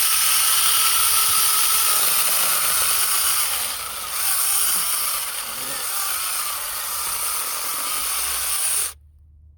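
Cordless battery chainsaw running under load, most likely cutting through wood, with the level wavering as the cut goes on. It stops abruptly about nine seconds in.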